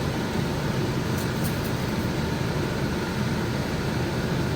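A steady low rushing hum, even in loudness, with a few faint light ticks about a second and a half in.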